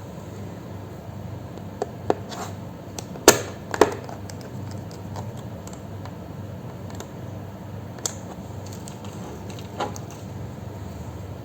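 A few short, sharp clicks and knocks of laptop parts being handled, the loudest pair about three to four seconds in, over a steady low hum.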